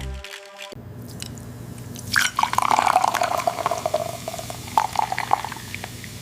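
Wet liquid sounds of a drink being mixed, squishy and dripping with small clicks, loudest in the middle; background music cuts off less than a second in.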